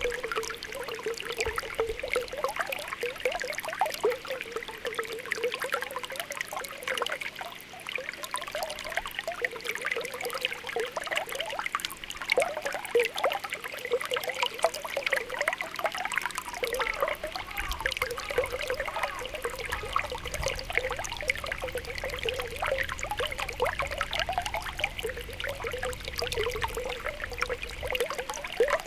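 Spring water welling up from the ground, with small bubbles popping continuously and irregularly over a steady trickle.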